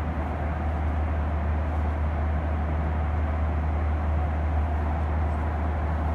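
Steady cabin noise inside a Boeing 737-900ER: an even low rumble with a wash of airflow over it, unchanging throughout.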